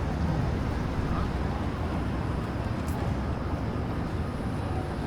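Steady low rumble of city street ambience, with traffic noise in the background.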